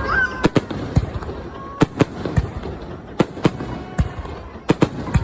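Fireworks going off in an irregular string of sharp bangs, about two a second.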